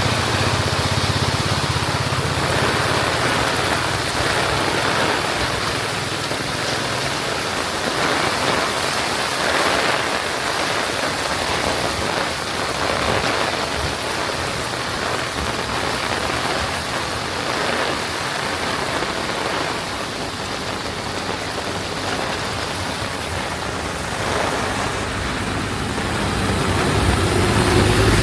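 Heavy rain pouring down in a steady, dense hiss, with a low hum under it for the first several seconds.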